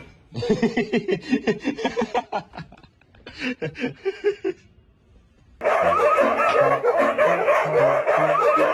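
Laughter in two runs of quick chuckles. About five and a half seconds in, a sudden loud, busy mix of sound with music in it starts and carries on.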